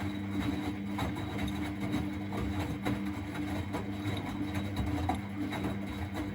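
Miele Novotronic W921 washing machine running: its drum motor hums steadily while irregular knocks and clicks come from the turning drum.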